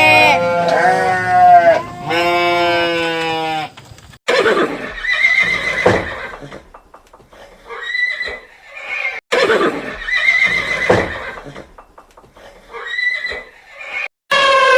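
Animal calls: two long, wavering calls at the start, then a series of shorter calls that rise and fall, repeating every two to three seconds.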